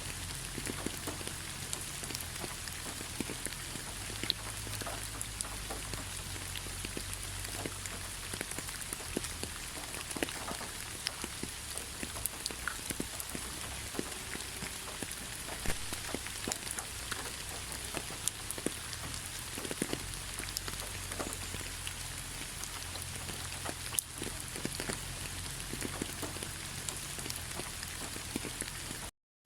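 Steady rain falling, with many separate drops ticking on a surface. It cuts out briefly just before the end.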